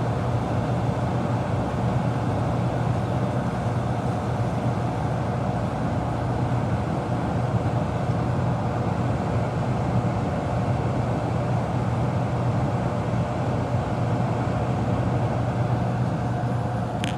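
Furnace blower motor running steadily with air rushing and a constant low hum, the blower working fine.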